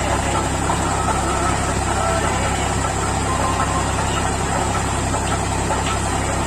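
Tractor engine running steadily, powering paddy threshing.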